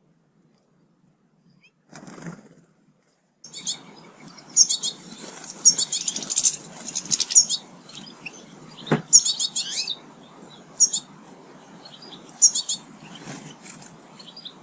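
Small garden birds at feeders chirping in short high phrases, repeated many times, starting a few seconds in, with one sharp tap about nine seconds in.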